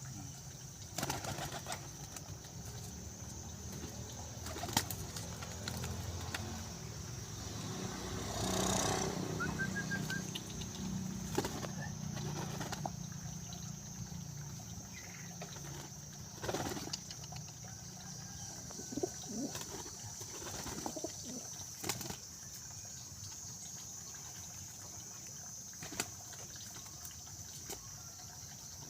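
Pigeons cooing and flapping their wings, with scattered sharp clicks and a longer rush of wing noise about eight seconds in.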